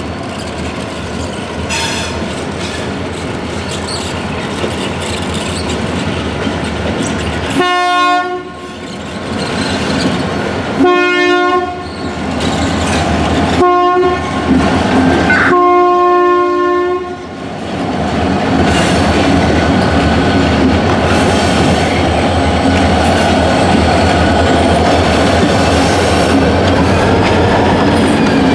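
CN freight train headed by four diesel locomotives passing close by, engines running, with the lead locomotive's air horn sounding the grade-crossing pattern about eight seconds in: two long blasts, a short one and a longer final blast. After that the freight cars roll past with steady wheel and rail clatter.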